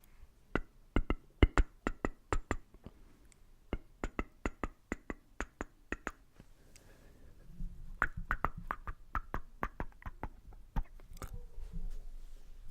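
Close-miked ASMR clicks and taps: quick, irregular runs of sharp clicks, several a second, with short pauses between the runs.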